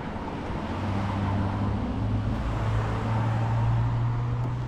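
Car engine running at idle, a steady low hum that rises slightly about two seconds in.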